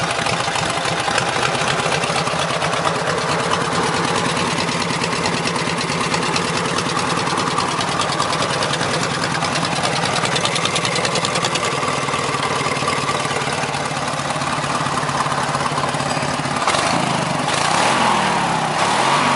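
Briggs & Stratton 18 hp twin-cylinder engine on a Craftsman lawn tractor, fitted with open headers, running steadily. Near the end it is revved up and back down twice.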